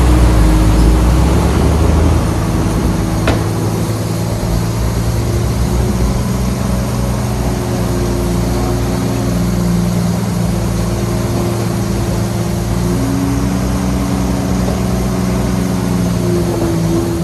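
Diesel engine of a Shantui bulldozer running steadily, its deep rumble easing off about two seconds in, with one short click a second later.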